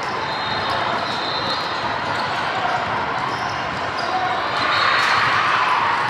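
Basketball game in a gym: a ball bouncing and sneakers squeaking on the court over steady crowd chatter, with the crowd noise swelling near the end.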